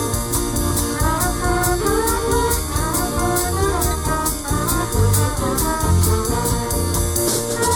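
A live band playing an upbeat instrumental passage, with a moving melody line over bass and a quick, steady cymbal beat.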